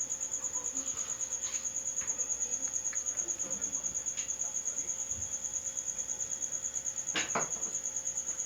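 A cricket chirping steadily: a high, evenly pulsing trill at about eight pulses a second. A short, louder sound comes through about seven seconds in.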